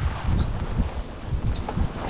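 Wind buffeting the camera microphone, an uneven low rumble that rises and falls in gusts.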